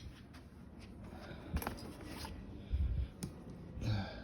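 Hand tools being handled and shifted in a tool tote bag: a few light clicks and dull knocks amid soft rustling.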